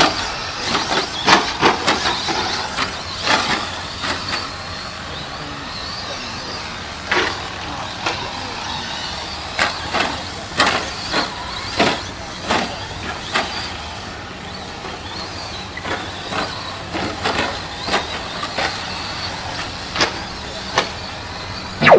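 2WD short-course RC trucks racing: high-pitched motor whine rising and falling, broken by frequent sharp clacks and knocks as the trucks hit bumps and land.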